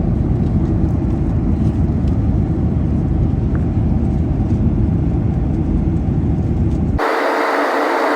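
Steady low rumble of a jet airliner's cabin noise in flight. About seven seconds in it cuts abruptly to a brighter, hissier steady noise carrying a faint steady tone.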